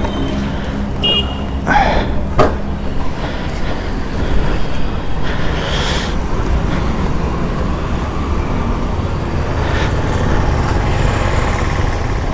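Steady road-vehicle and traffic noise, with two short knocks about two seconds in and a brief hiss around six seconds.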